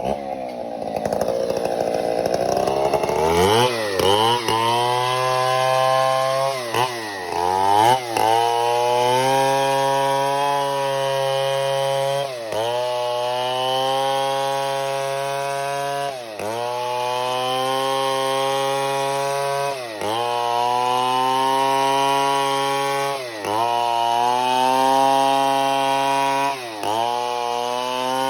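Stihl MS 070 chainsaw's big single-cylinder two-stroke engine, revving up in a few quick swings and then held at high revs while cutting wood. The revs sag briefly and recover about every three to four seconds.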